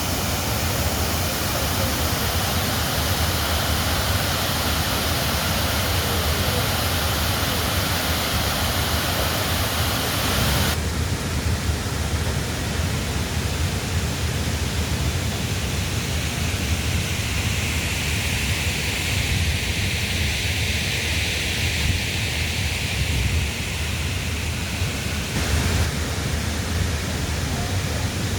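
Swollen, fast-flowing floodwater in a river rushing as a steady, loud wash of noise. About ten seconds in the sound changes abruptly and becomes duller, then shifts again near the end.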